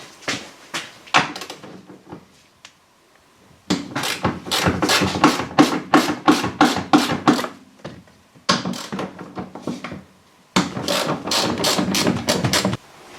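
Hand-tool work on car suspension parts: three bursts of rapid knocking strikes, about four or five a second, with short pauses between.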